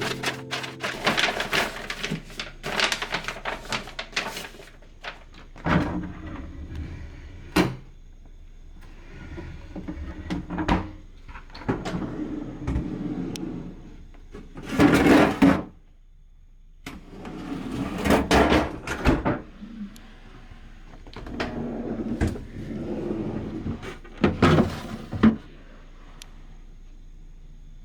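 Handling in a refrigerator's freezer and vegetable drawers: irregular knocks and clatter of plastic parts and containers, with rustling and swishing in between.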